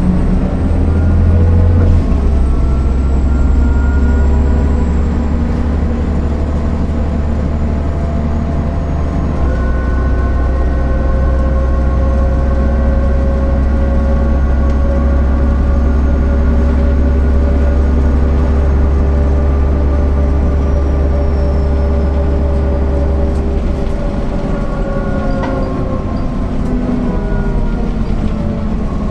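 MAN NL 262 city bus's six-cylinder diesel pulling under way. The note shifts about two seconds in, as an automatic gearbox change would give. It then holds a steady note at speed and falls away near the end as the engine eases off, with a faint high whine slowly dropping in pitch.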